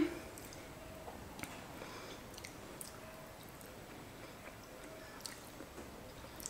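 A person chewing a mouthful of food quietly, with faint, scattered small mouth clicks.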